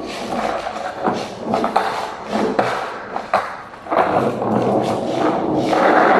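Skateboard wheels rolling on wet pavement, with irregular clacks and thuds from the board.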